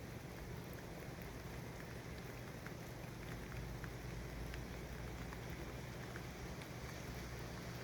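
Steady city traffic ambience: a low rumble of distant traffic under an even hiss, with faint scattered ticks.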